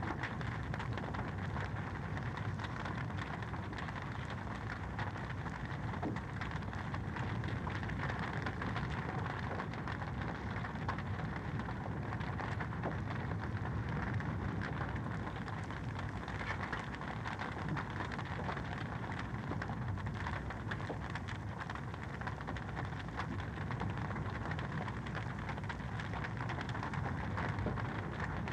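Wood fire in a fireplace crackling steadily: a dense, even run of small pops and snaps over a low, steady rumble.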